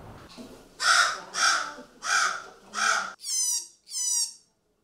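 A bird cawing four times in harsh, rasping calls about half a second apart, followed by two shorter calls that drop sharply in pitch.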